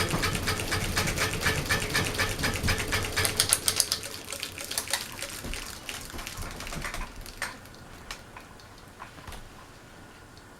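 Harbor Breeze Vector Elite ceiling fan coasting down after being switched off: a fast, even clicking with a fading hum that slows and thins out, ending as a few separate clicks as the blades come to rest.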